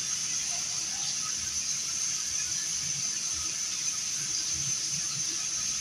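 Steady high hiss of background noise, with nothing else standing out.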